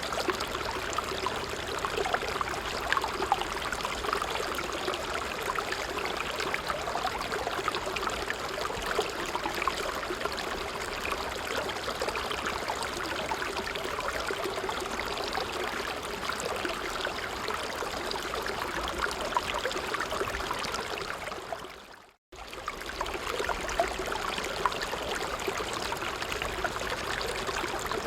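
Small stream running and babbling over stones, a steady rush of water with little splashes. About three quarters of the way through it fades briefly to silence and comes straight back.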